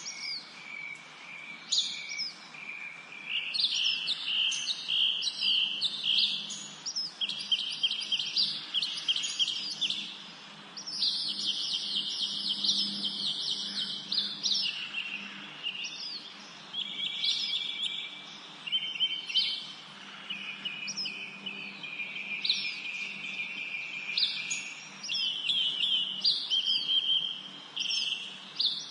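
Several songbirds singing and calling over one another in a forest: quick trills, chirps and short high notes that sweep downward, almost without a break.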